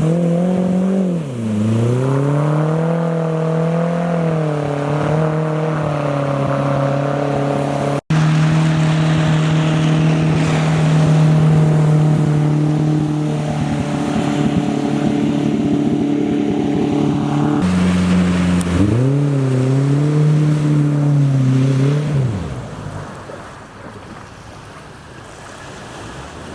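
Mercury 60/40 jet outboard running under way, its pitch dipping and recovering a couple of times, then dropping away about 22 seconds in to leave water and wind noise. The motor is short of power, which the owner puts down to a bad coil pack.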